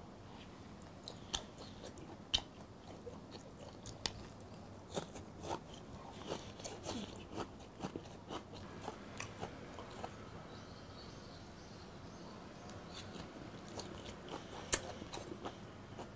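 Close-up chewing of raw croaker (minaeo) sashimi: soft, wet mouth clicks and smacks scattered throughout, with one sharper click near the end.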